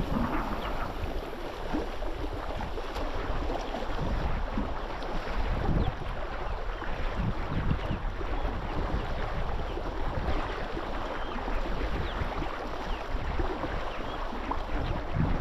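Wind buffeting the microphone over water, a steady rushing noise with small splashes and lapping throughout.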